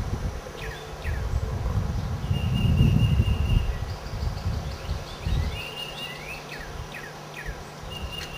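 Honey bee swarm buzzing as a steady low hum, with birds calling over it: short downward-sliding chirps and a few held whistles. Wind rumbles on the microphone, loudest about three seconds in.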